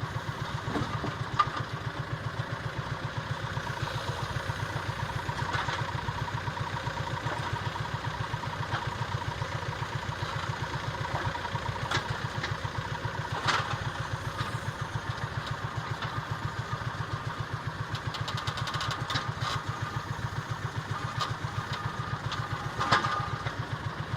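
Engine of a John Deere Gator HPX 4x4 utility vehicle idling steadily, with a few sharp knocks and clatters over it, one of them loud about halfway through and another near the end.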